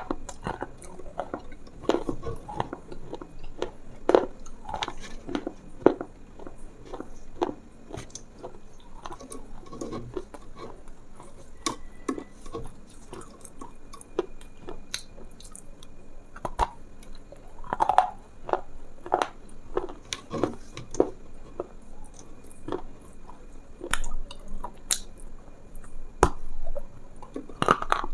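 Close-miked chewing and biting: an irregular run of crunchy clicks, several a second.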